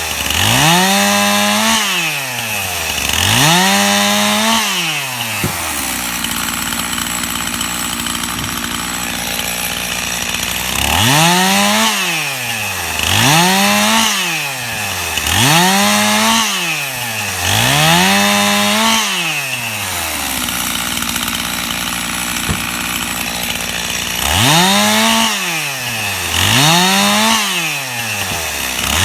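Stihl gas chainsaw cutting limb wood, revving up and dropping back about every two seconds, one rev per short cut. It settles to a steady idle twice between the groups of cuts, from about 6 to 11 seconds and about 20 to 24 seconds in.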